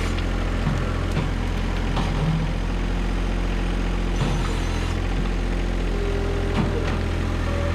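John Deere 1025R compact tractor's three-cylinder diesel engine running steadily, with a few short knocks and clunks over it.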